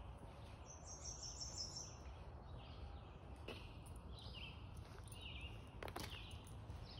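Woodland birds singing: a quick high trill about a second in, then repeated short chirping phrases, with a few footsteps on a dirt trail around the middle and near the end over a steady low background rumble.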